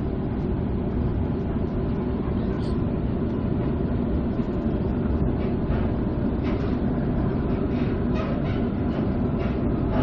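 Passenger train running along, heard from inside the carriage: a steady low rumble, with a run of faint clicks from about halfway through.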